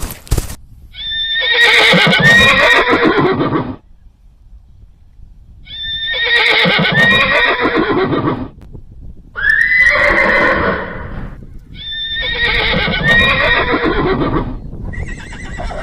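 Horse whinnying: four long neighs of two to three seconds each, with short pauses between them, and another neigh starting near the end.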